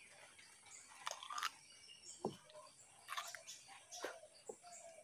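Raw cucumber being bitten and chewed: short crisp crunches about a second in and again around three and four seconds in, as bits of the skin are bitten off. There is a low dull thud just after two seconds in.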